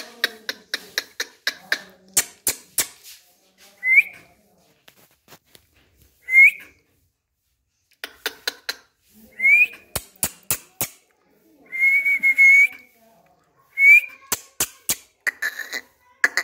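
Indian ringneck parrot whistling and clicking: runs of rapid sharp clicks broken by about five short upward-sliding whistles, one of them held for about a second.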